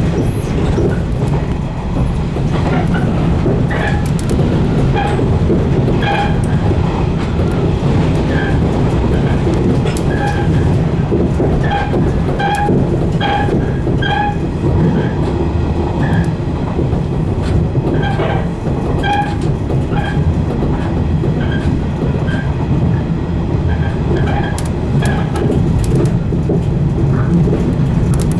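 115 series electric train running along the track, heard from the cab: a steady low rumble with scattered clicks and many short high squeaks at irregular intervals.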